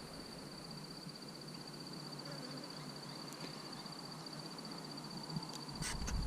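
Faint outdoor background with a steady high-pitched whine, and a crow starting to caw near the end.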